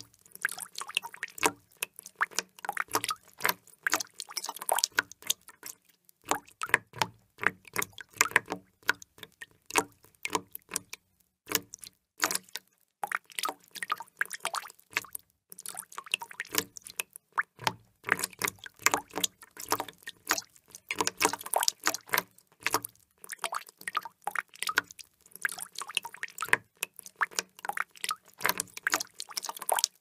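Water drops falling into water in quick, irregular succession, many drips a second, with a few short pauses between runs.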